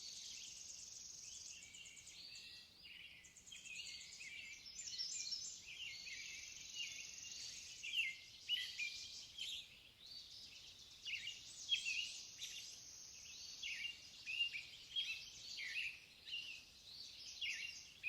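Birdsong: many small birds chirping and twittering in quick, overlapping calls, with a fast buzzy trill in the first few seconds.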